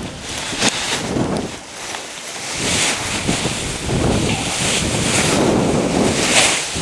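Strong wind buffeting the microphone in surging gusts, with a couple of sharp buffets, one near the start and one near the end.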